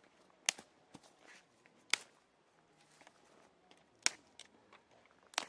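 Wood fire crackling: four sharp, separate pops a second or two apart over a faint background.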